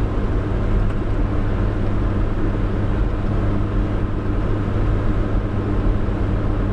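Steady low drone of a truck's engine and road noise heard from inside the cab while driving at an even speed.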